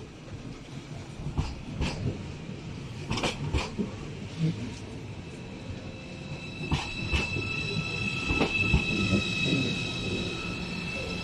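Train rolling slowly through the station, its wheels knocking over rail joints and points. About halfway through, a high, steady metallic squeal sets in and holds.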